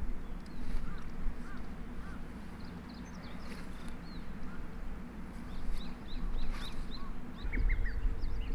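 Small birds chirping repeatedly in short, quick calls over a low, steady wind rumble.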